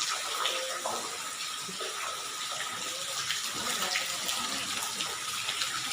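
Small waterfall and river water rushing and splashing, a steady hiss with a thin steady tone running under it.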